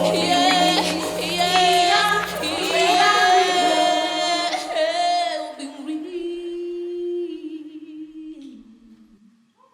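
Women's voices singing in harmony over a low held note that drops out about two and a half seconds in. The voices then hold long notes that fade away, the last one stepping down, closing the song.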